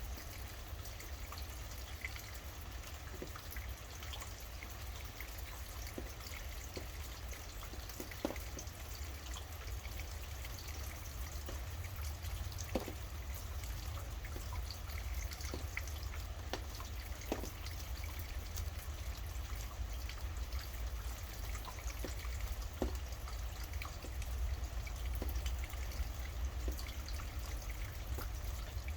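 Steady rain falling, with individual drops striking close by as sharp drips every few seconds, over a low steady rumble.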